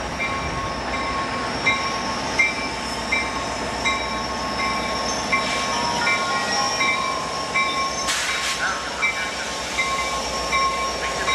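VIA Rail F40PH diesel passenger locomotive and its coaches rolling slowly into a station, its bell ringing about twice a second over the engine and wheel noise. A short hiss sounds about eight seconds in.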